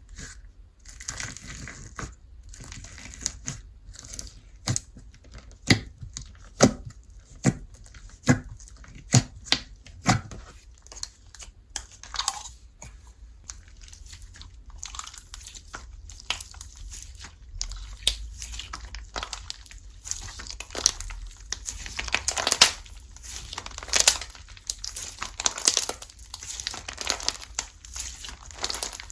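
Hands playing with slime: sharp clicking pops in the first ten seconds, then denser crinkly, tearing sounds as it is stretched and squeezed.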